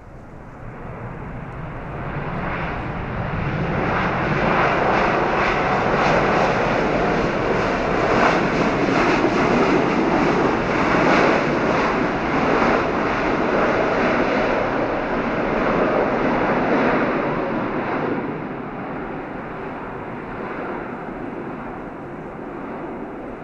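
Jet airliner's engines passing close by: the rushing noise swells over a few seconds, stays loud for about twelve seconds, then fades away.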